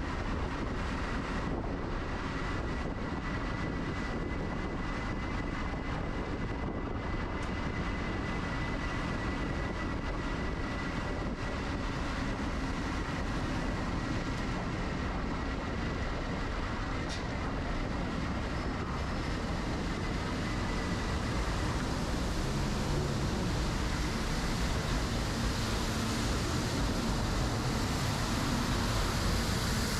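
Steady wind rush and rolling noise on a bike-mounted action camera's microphone while riding, with a faint steady whine through the first third; the noise grows a little louder in the second half.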